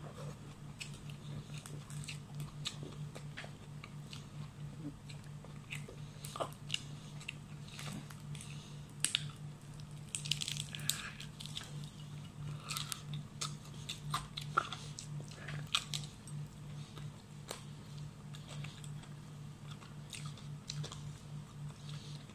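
A person chewing and biting into fish eaten by hand, with irregular wet clicks, smacks and small crunches, busiest a little before the middle of the stretch. A steady low hum runs underneath.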